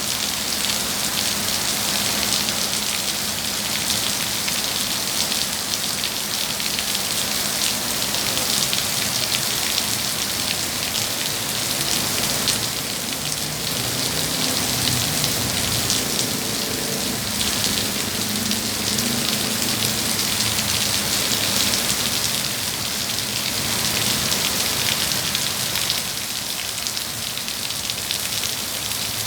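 Heavy rain from Storm Molave falling steadily, a dense hiss of drops pattering on surfaces.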